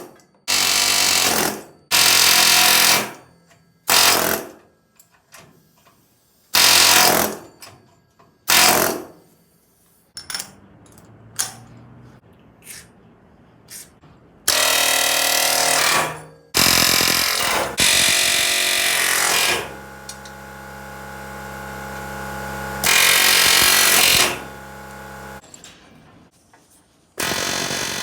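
Pneumatic air hammer firing in bursts of one to two seconds, about eight times, knocking old rivets out of a steel truck frame. A steady hum sits under the later bursts.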